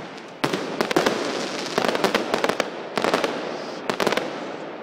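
Fireworks display going off: rapid overlapping bangs and crackles in several volleys, beginning about half a second in.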